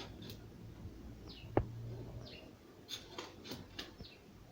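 A small bird chirping repeatedly, short falling notes about once a second. Several light clicks and scrapes of hands working soil around a potted plant run alongside, with one sharper knock about a second and a half in.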